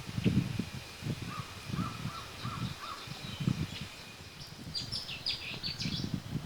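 Wild birds calling: a run of four short notes about a second in, then a quick series of higher, sharper calls about five seconds in, over a low, uneven rumble of wind on the microphone.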